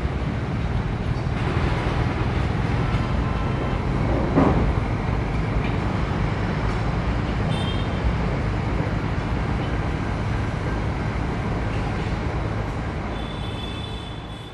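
Passenger train rumbling over the rails as it runs away down the track. There is a single clank about four seconds in and a few faint high squeals near the end, and the rumble fades away at the close.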